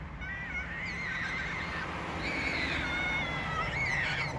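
Several high, wavering whistle-like animal calls, overlapping one another, over a steady low hum.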